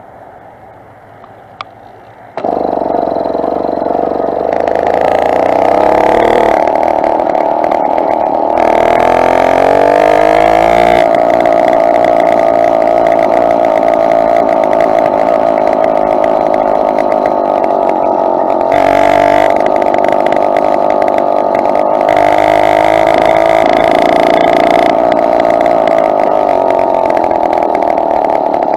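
Two-stroke motorized bicycle engine cutting in suddenly about two seconds in, rising in pitch as the bike accelerates, then running steadily at speed.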